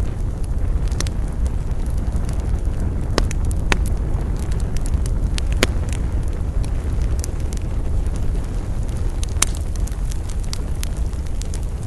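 Campfire burning: a steady low roar of flames with sharp wood crackles and pops, the loudest about three seconds in, near the middle and a little after nine seconds.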